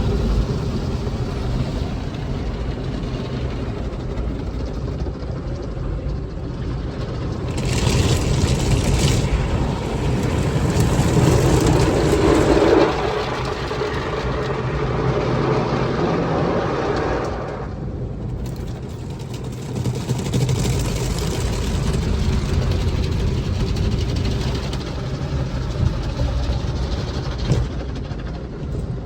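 Car wash heard from inside the car's cabin: a steady low rumble with spells of rushing water spray and washing against the body, the loudest stretch cutting off sharply about two-thirds of the way through.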